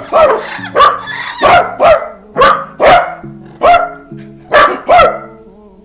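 Dog-like barking: about nine sharp barks at roughly two a second, each dropping in pitch, over background music with held low notes.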